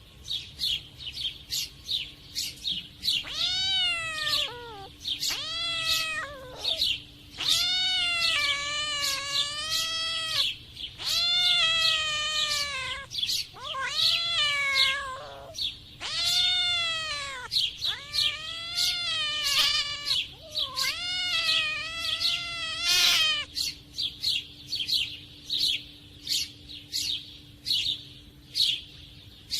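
Cats caterwauling while mating: a string of about nine long, wavering yowls, each a second or so, running from a few seconds in until about two-thirds of the way through, then stopping. Quick high chirps keep going throughout.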